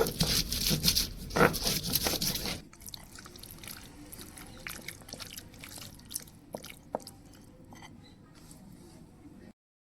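Wet food being squished and mixed by hand, loud and irregular for the first few seconds, then light taps and clicks. The sound cuts off abruptly near the end.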